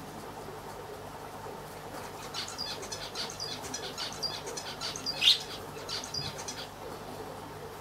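A small bird chirping in a quick run of short, high notes for a few seconds in the middle, the loudest near the end of the run, over the steady low hum of aquarium equipment.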